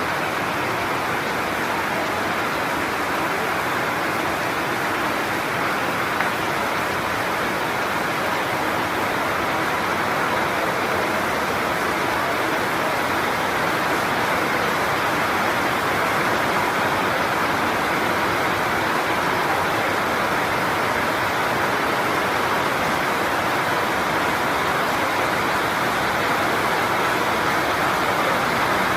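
Heavy rain pouring down steadily, a continuous even hiss.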